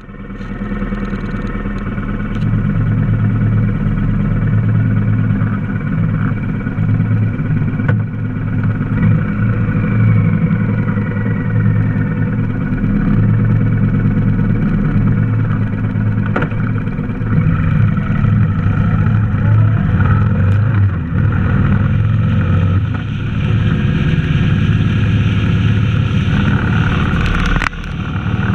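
Honda VTX 1300's V-twin engine running with a steady low throb while the motorcycle sits at the curb, then pulling away and riding on down the street.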